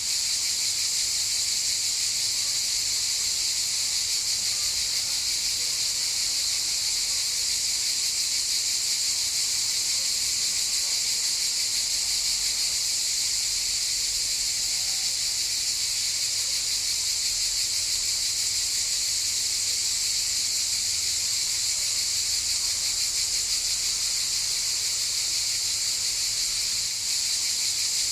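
A chorus of cicadas buzzing without a break: one continuous high-pitched drone that holds steady throughout.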